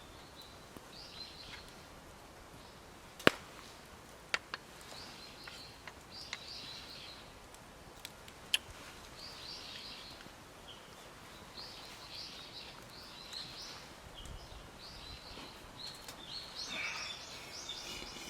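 Small birds chirping in short repeated calls, with three sharp snaps, the first about three seconds in the loudest, and a busier run of calls near the end.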